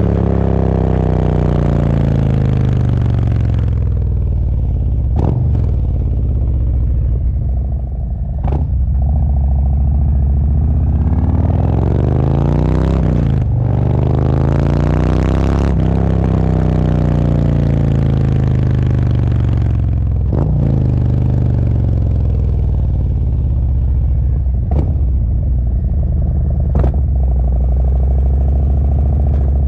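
Harley-Davidson Road Glide's V-twin running through a Khrome Werks full exhaust with no baffles while riding: the revs drop over the first few seconds, climb again from about eight seconds in, break briefly for a gear change around the middle and then ease off. The note is bassy and deep rather than crisp, as it is without the baffles.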